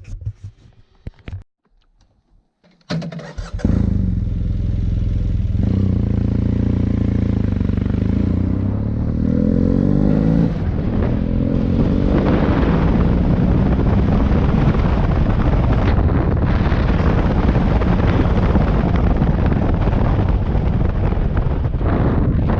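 Motorcycle engine starting to pull away about three seconds in, after a brief near silence, its pitch rising as it accelerates. It then runs on steadily under rushing wind noise.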